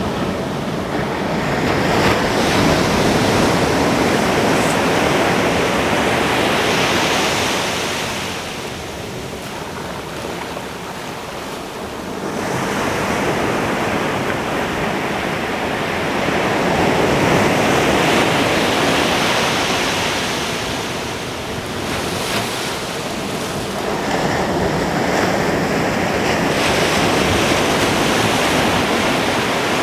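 Ocean surf breaking on a beach, a continuous rushing noise that swells and ebbs as successive waves come in, with a quieter lull near the middle. Some wind is on the microphone.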